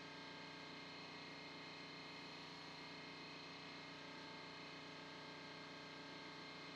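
A faint, steady hum made of several held tones, with no knocks or other events.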